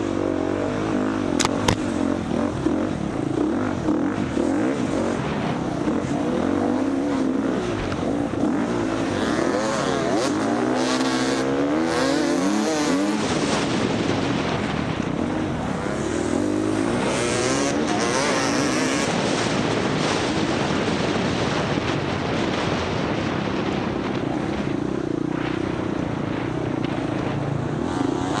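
Four-stroke single-cylinder engine of an FX350 dirt bike under hard off-road riding, revving up and down as the throttle is worked, over steady wind and ground noise. A couple of sharp knocks sound in the first two seconds.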